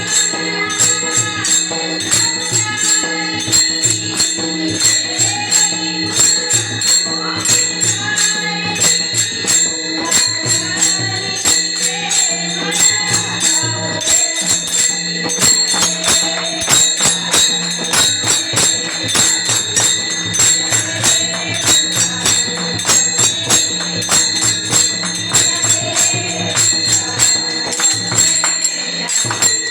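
Marathi devotional song to Krishna sung by a woman, over a steady beat of percussion and held accompanying tones.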